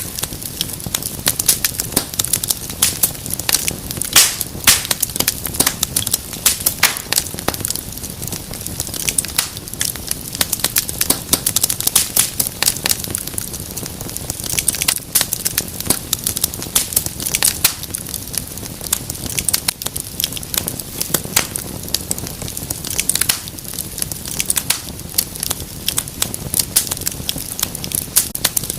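Wood fire crackling and popping steadily, with many irregular sharp snaps over a soft low rumble of flame.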